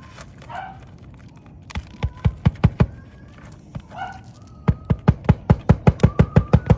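Hammer blows in quick runs: a handful of strikes about two seconds in, then a steady run of about five strikes a second from just past the middle on.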